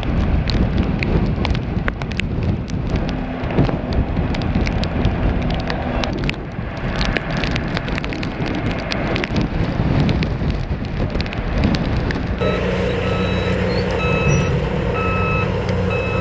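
Rough outdoor noise full of crackles, then about twelve seconds in a heavy vehicle's engine runs steadily and its reversing alarm beeps about once a second as it backs up.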